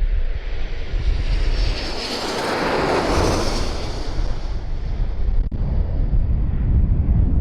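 Airliner passing low overhead, its engine noise swelling to a peak about three seconds in and then fading away, with wind rumbling on the microphone throughout.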